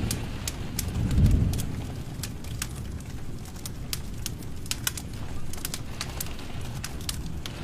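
Wood fire burning in a fireplace, crackling with frequent irregular sharp pops over a steady low rumble of flame. A low swell of rumbling about a second in is the loudest moment.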